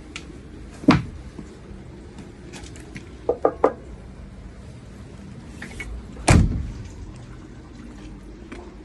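Steady rain and wind noise, with two heavy thumps, one about a second in and the louder one about six seconds in, and a quick run of three clicks between them.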